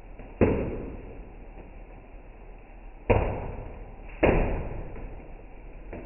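Three sharp bangs over a steady hiss. The first comes about half a second in, and the other two follow about a second apart later on. Each dies away over about half a second.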